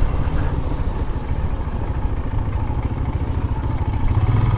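Motorcycle engine running while riding slowly, a dense low rumble throughout that settles into a stronger, steadier engine note about four seconds in.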